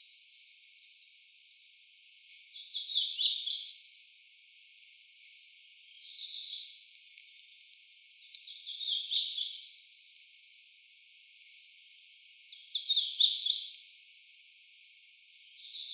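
Cerulean warbler singing its buzzy song three times, a run of quick notes climbing to a high buzz, with softer song phrases in between.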